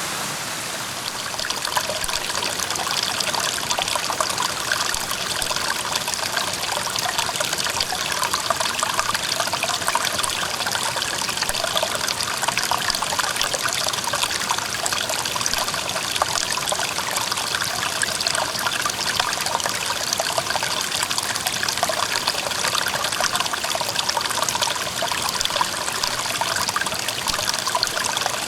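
Clear mountain stream babbling and trickling over rocks, with steady splashing and gurgling.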